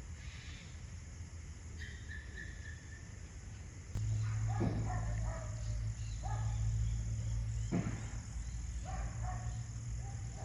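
Outdoor ambience with faint insects. About four seconds in, a steady low hum starts, and four short falling animal calls come about a second and a half apart.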